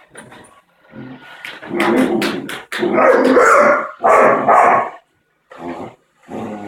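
A dog barking and growling at a Roomba robot vacuum in a string of loud bursts, loudest around the middle.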